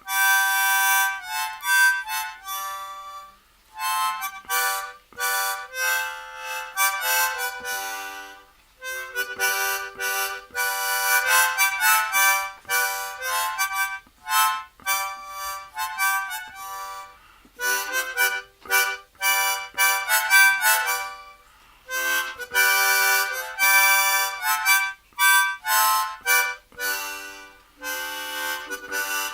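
Harmonica playing an instrumental passage alone, in short phrases of chords and single notes broken by brief pauses, with no bass or drums.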